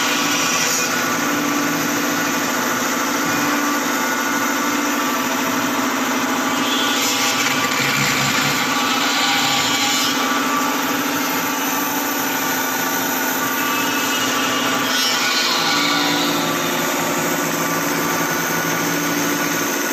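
Robotic MIG welding: the arc sizzles and crackles steadily under a constant machine hum, shifting slightly twice as the weld runs on.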